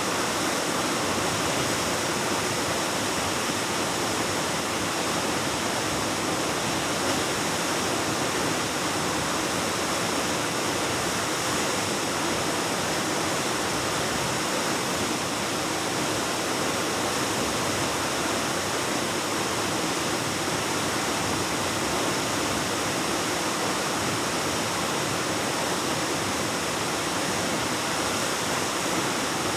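Waterfall pouring steadily into a cave: an even, unbroken rush of falling water.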